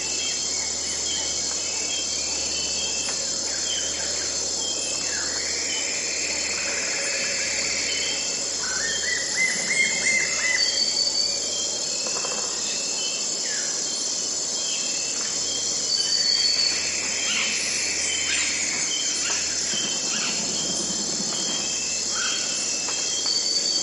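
Wild birds calling in a forest over a steady chorus of insects, with short chirps repeating throughout and a few louder sweeping whistled phrases, the clearest about nine seconds in.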